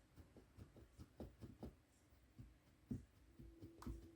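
Near silence with faint, scattered light clicks and knocks, one slightly stronger about three seconds in, and a faint steady hum starting near the end.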